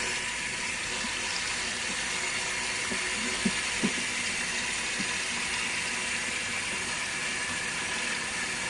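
Sink faucet turned on and running steadily, hot water pouring into the tub of a small RV washing machine to fill it. There are a couple of faint knocks about three and a half seconds in.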